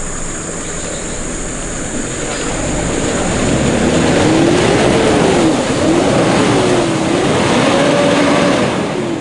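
Off-road 4x4's engine revving under load as it pushes through a deep muddy rut, its note rising and falling several times with the throttle. It grows louder over the first few seconds as the vehicle approaches.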